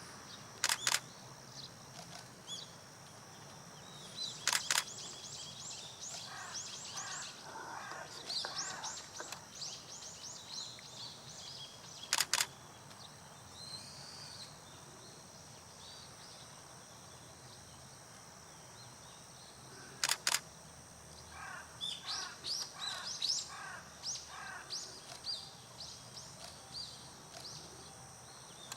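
A camera shutter fires four times, each a quick double click. Between the clicks, birds chirp in runs of rapid, high-pitched notes.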